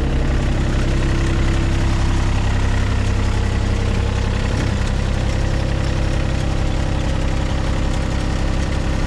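Komatsu excavator's diesel engine idling steadily.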